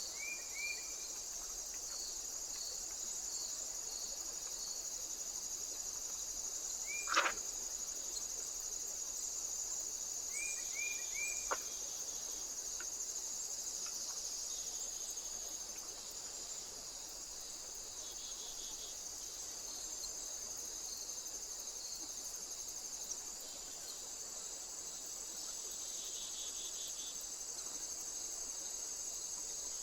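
Insects stridulating in a continuous high-pitched trill. A few short chirps come near the start and again around ten seconds in, and there is a single sharp click about seven seconds in.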